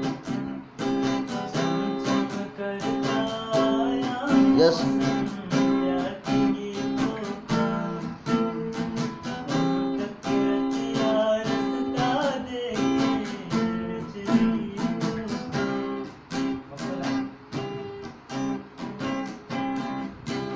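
Music: an acoustic guitar strummed in a steady rhythm, with a melody line gliding over it in places.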